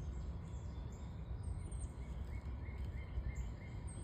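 Small birds chirping: a run of short high notes about halfway through and a couple of thinner, higher gliding notes, over a steady low rumble.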